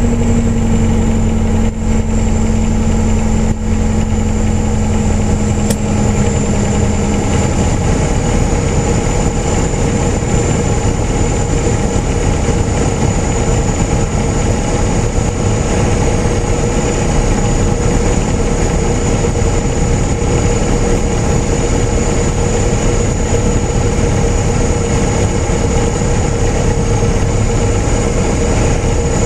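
Light airplane's piston engine and propeller running steadily, heard inside the cockpit. A low hum in the sound drops out about seven seconds in.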